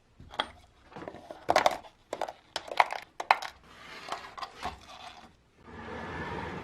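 Metal parts clinking and knocking against a hard surface, about a dozen sharp clicks over the first three and a half seconds, followed by two stretches of steady scraping noise.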